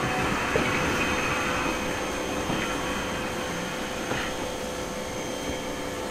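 A heritage passenger train rolling slowly into the station platform: a steady running noise with a few held squealing tones and an occasional light knock, slowly fading.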